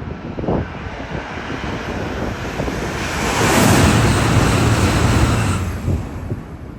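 A train passing at speed: a rushing noise that swells to its loudest for about two seconds midway, with a low steady hum beneath it, then dies away. Wind buffets the microphone.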